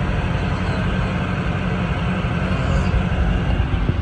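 A 2013 Dodge Challenger R/T's 5.7 L Hemi V8 idling through its quad-tip exhaust: a steady deep rumble.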